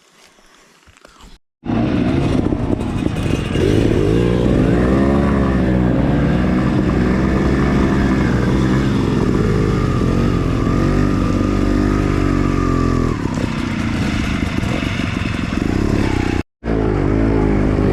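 Enduro dirt bike engine running hard off-road, its revs rising and falling repeatedly as the throttle is worked. It starts suddenly about a second and a half in and breaks off for a moment near the end.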